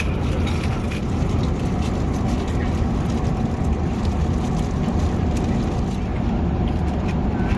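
Steady cabin noise of an Airbus A380 in cruise: an even, unbroken low roar of airflow and engines.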